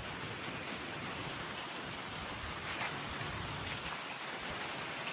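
Steady rain falling, with a few separate drops ticking now and then.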